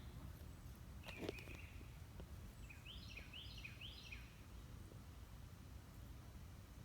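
Faint outdoor background noise with a small bird's quick series of chirps, about four a second, starting just under three seconds in.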